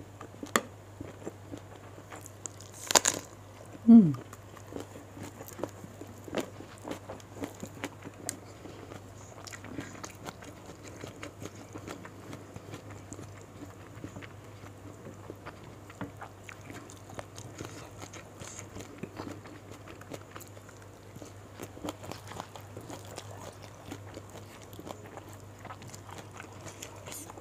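Close-miked eating sounds of a person chewing and biting fried gourami, rice and raw vegetables eaten by hand, with many small crunches, smacks and clicks. About four seconds in comes the loudest sound, a brief low sound that falls in pitch.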